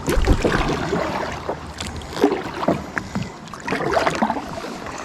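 A kayak on the water being moved and paddled: irregular splashing and sloshing with scattered knocks.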